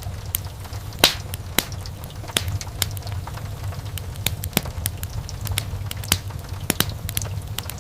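Wood fire crackling: irregular sharp pops and snaps from the burning logs, several a second, the loudest about a second in, over a steady low rumble of the flames.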